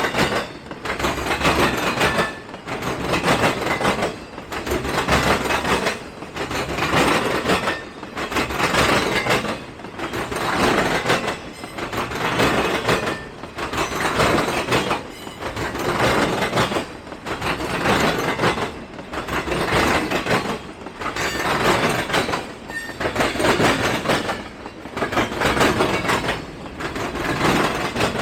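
Train rolling past at close range, its cars going by one after another. The noise swells and dips evenly about every two seconds as each car passes.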